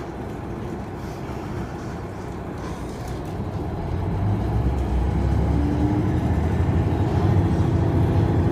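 Passenger train running, heard from inside the car: a steady rumble that grows louder about four seconds in, joined by a steady hum.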